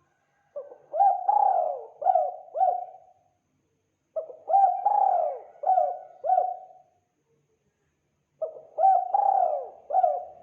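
Spotted dove cooing: three phrases of about five notes each, a few seconds apart.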